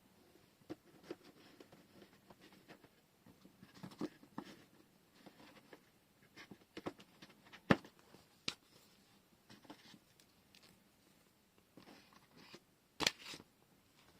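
Scattered small taps, clicks and rustles of washi tape rolls and their packaging being handled on a table. Two sharper clicks stand out, one a little past halfway and one near the end.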